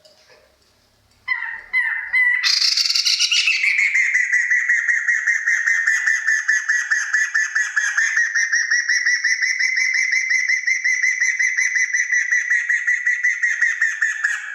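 Kriko Gayo bird singing one long, rapid rattling trill, pitched high and fairly steady. It starts with a few short notes and breaks off just before the end.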